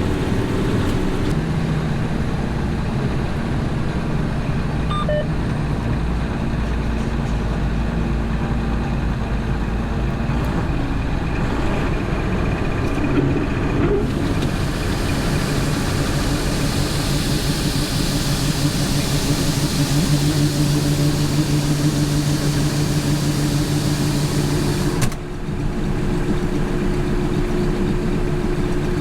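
Combine harvester running steadily under load while harvesting soybeans, a constant engine and machinery drone with a hiss layered on from about halfway through and a brief dip near the end.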